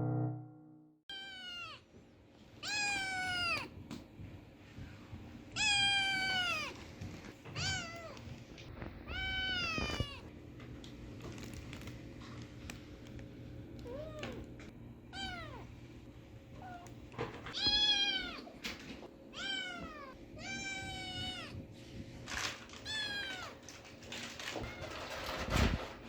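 A British Shorthair kitten meowing repeatedly: about a dozen short, high calls, each falling in pitch, spaced a second or two apart.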